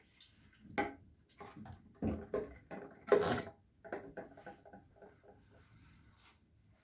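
Squeaky, squishy cleaning sounds: a run of irregular rubbing strokes and squeaks, the loudest about three seconds in, dying away after about five seconds.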